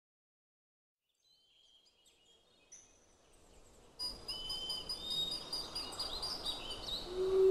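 Birds chirping in short calls and quick rising and falling whistles over a steady hiss: faint at first, louder from about four seconds in. A steady musical tone comes in near the end.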